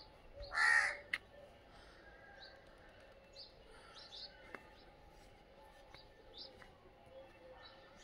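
A single loud, harsh bird call a little under a second in, followed by faint, scattered short chirps from small birds.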